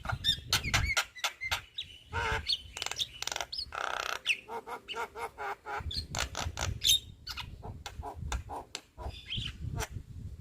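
Young Javan myna (jalak kebo) singing a fast, varied chattering song of sharp clicks, rasps and short whistled notes.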